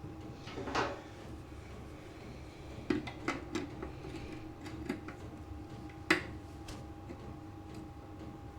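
Scattered clinks and knocks of hand tools and metal parts being handled on a workbench, about half a dozen separate strikes with the sharpest about six seconds in, over a steady faint hum.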